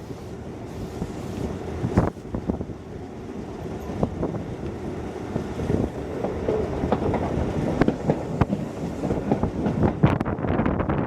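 Hokuso Railway 7260 series electric train running, heard from inside the car: a steady running noise that grows louder, with the wheels clicking and knocking over rail joints.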